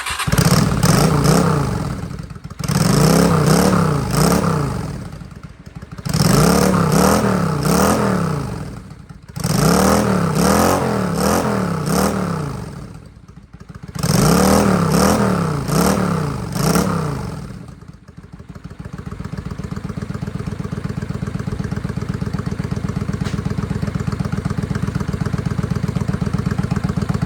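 Honda Steed 400 V-twin motorcycle engine starting and being revved in five bursts of quick throttle blips, its pitch rising and falling within each burst. About 18 seconds in it settles into a steady idle.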